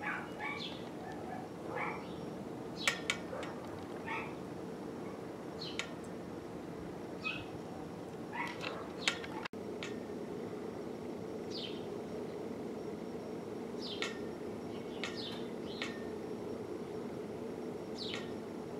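Small birds chirping now and then, short sharp calls, many sliding down in pitch, over a steady low background hum.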